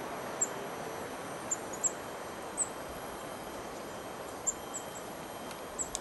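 Very high, thin bird call notes, about eight short ones scattered through, over a steady background hiss.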